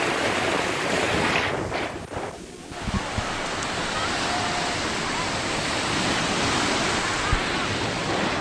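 Mediterranean surf washing on the shore, with wind buffeting the microphone in a few low thumps. The noise dips briefly about two seconds in.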